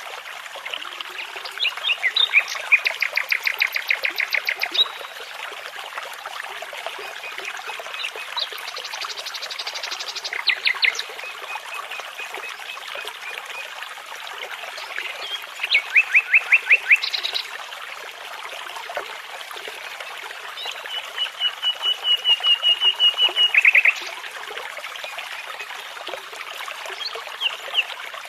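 A brook babbling steadily under a songbird's song. The bird sings four phrases of rapid repeated notes, and the last is a long, even trill that ends a few seconds before the close.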